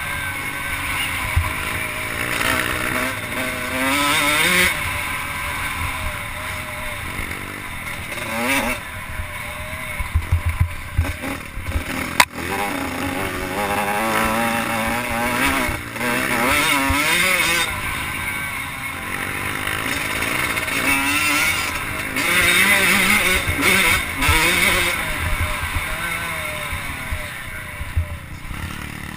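Several 85cc two-stroke motocross bikes racing, their engines revving up and falling back again and again as they work around the track. There is a single sharp click about twelve seconds in.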